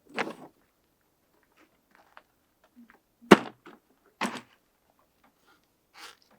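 Four separate knocks and thumps with quiet between them, the sharpest and loudest about three seconds in.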